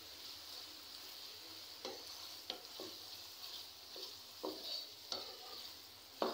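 Diced liver and ginger paste frying in hot oil in a stainless steel pan, sizzling steadily. A wooden spatula stirs it, scraping and knocking against the pan about once a second, with the loudest stroke near the end.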